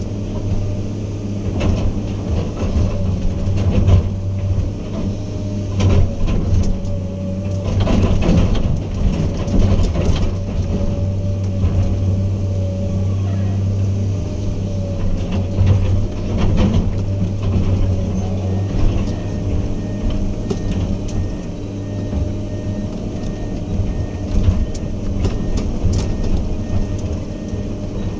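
Heavy diesel earthmoving machine running steadily with a deep engine hum and a steady whine, broken by frequent irregular clanks and knocks.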